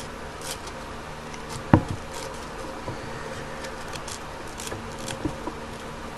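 Small glass bulbs being lightly rubbed with sandpaper in short, irregular scratchy strokes, frosting the glass, over a steady low hum. A single sharp knock about two seconds in.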